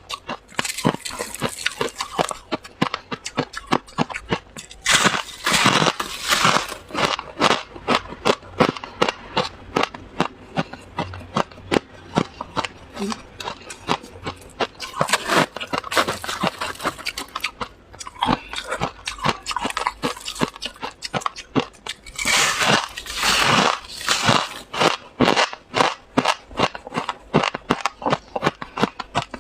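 Freezer frost being bitten and chewed: many quick, crisp crunches throughout, with three longer, louder spells of crunching.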